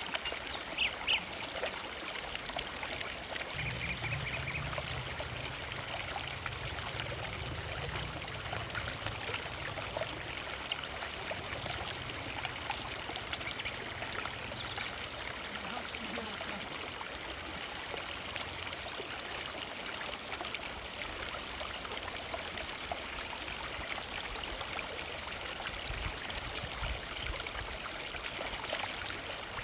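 Forest river flowing steadily, water rushing and splashing over stones, with a few faint bird chirps in the first seconds.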